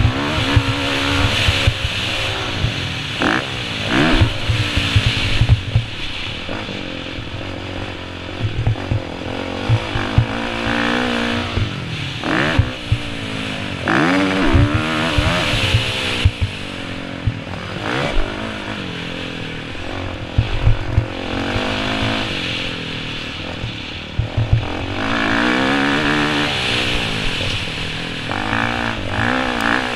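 Motocross dirt bike engine revving, its pitch rising and falling again and again as the throttle opens and closes.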